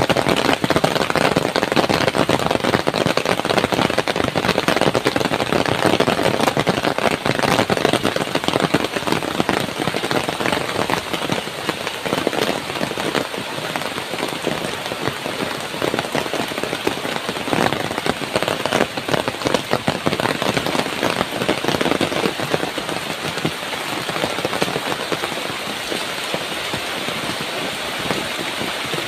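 Heavy rain pouring steadily, a dense patter of drops. It eases slightly after the first dozen seconds.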